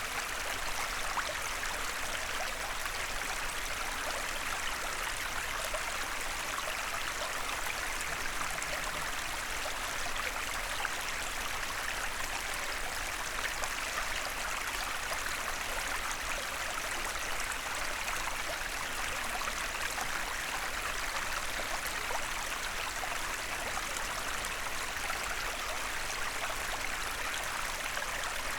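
A small forest stream flowing steadily: an even rushing and babbling of water over stones, with no change in level.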